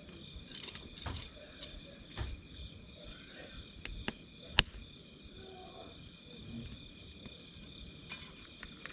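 Campfire crackling: scattered sharp pops and snaps of burning wood, with one loud pop about halfway through.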